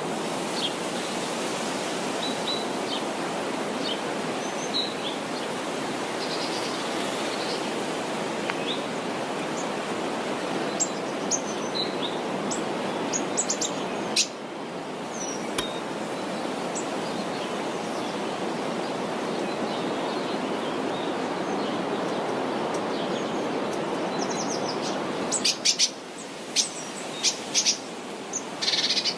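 Steady rush of river water, with small birds chirping now and then above it and a few sharp clicks near the end.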